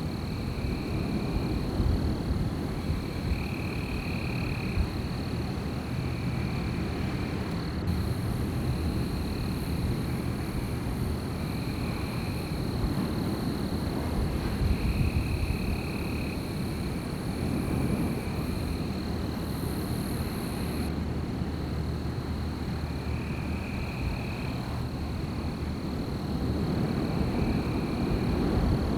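Wind gusting and rumbling through a night forest. Over it run a steady high-pitched insect drone and short calls repeated every second or two.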